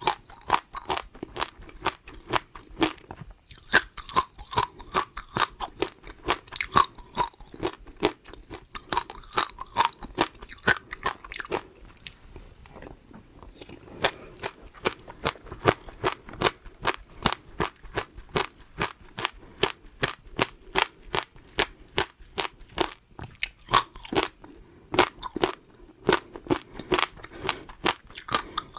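Close-miked eating: a person crunching and chewing food in a quick, steady run of sharp crunches, with a brief pause a little before halfway.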